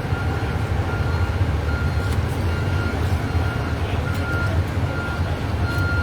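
Vehicle backup alarm beeping in a steady, evenly spaced series of short single-tone beeps, a little faster than one a second, over the low rumble of an idling engine.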